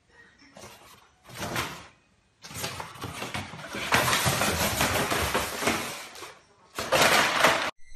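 Paper bag rustling and scraping along a wooden floor as a cat inside it moves about. It comes in noisy bursts: two short ones in the first two seconds, then a long rustle of several seconds and one more burst near the end.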